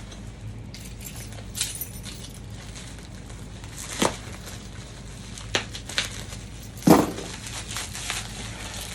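Packaging rustling and crinkling while loose parts are handled, with a few sharp knocks and clicks; the loudest knock comes about seven seconds in.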